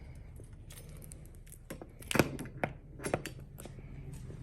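Handling noises: a quick run of five or so sharp clicks and knocks over a low steady hum.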